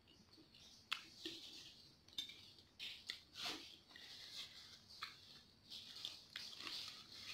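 Faint eating sounds: chewing and lip smacks with scattered small clicks, then a paper tissue rustling in the second half.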